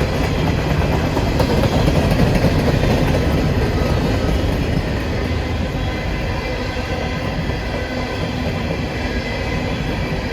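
Freight train cars rolling past on the rails, a steady loud rumble of wheels and cars that eases a little after a few seconds.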